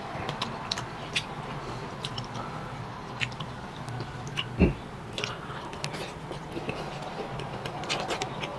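A person eating beef shank soup close to the microphone: chewing with scattered wet smacks and small clicks, and one dull thump about four and a half seconds in.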